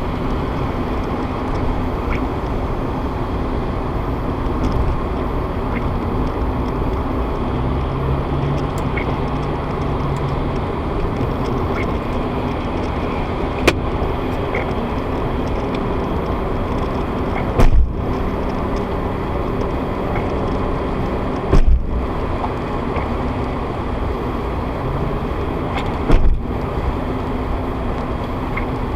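Steady road and engine noise inside a moving car, picked up by a dashcam's built-in microphone, with three loud thumps in the second half.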